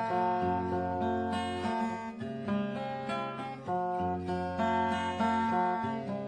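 Steel-string acoustic guitar, a Donner 3/4-size dreadnought, played with strummed chords and picked notes, the chords changing every second or so.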